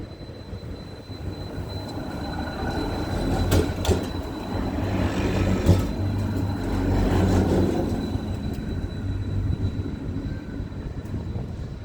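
A heavy vehicle passing close by. Its low engine hum and rumble build up, peak for a few seconds with a few sharp clicks and knocks, then fade away.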